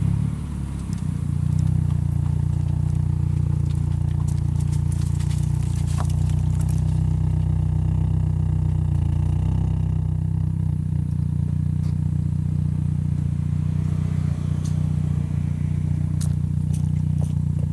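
Saab 9-3 engine running through a handmade stainless-steel exhaust, a steady low drone at constant engine speed with a brief dip just after the start.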